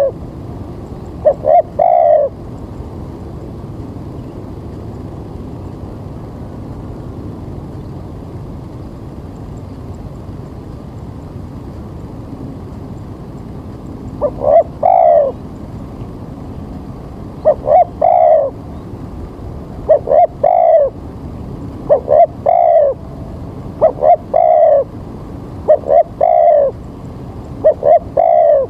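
Spotted dove (tekukur) cooing: phrases of short notes ending in a longer one. One phrase comes about two seconds in, then after a long pause the phrases repeat every two seconds or so through the second half.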